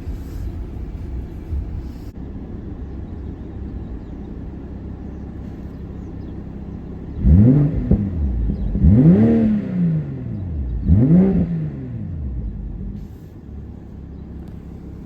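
BMW M340i's turbocharged 3.0-litre inline-six breathing through an AWE aftermarket exhaust and Dinan intake, idling steadily, then revved in three quick throttle blips about two seconds apart, each rising and falling in pitch, before settling back to idle.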